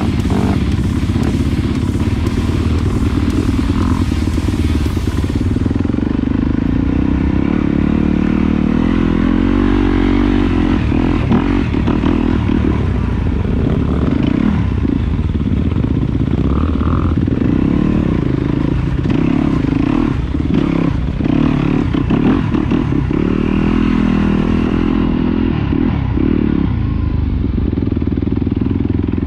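Trail dirt bike engine running while being ridden, its note rising and falling with the throttle, with scattered knocks and rattles.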